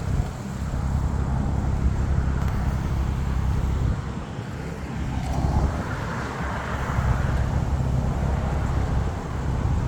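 Road traffic noise with a heavy low rumble of wind on the microphone; a passing vehicle swells and fades about halfway through.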